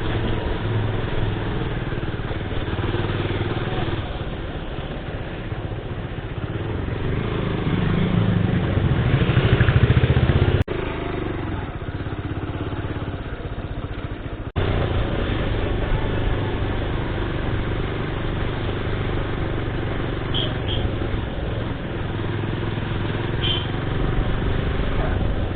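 Motorcycle engine running while riding through traffic, with road and wind noise. The engine note swells louder about eight to ten seconds in, and the sound breaks off abruptly twice, about ten and fourteen seconds in.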